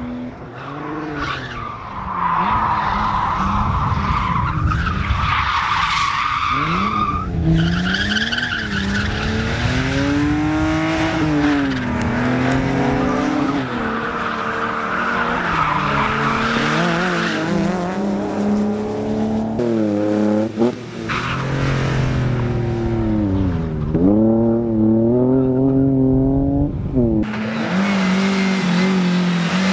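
Competition car at full throttle on a slalom course: the engine revs up and drops back again and again as it goes through the gears and lifts for the turns. Tyres squeal and skid through the corners, most clearly near the start and again about halfway through.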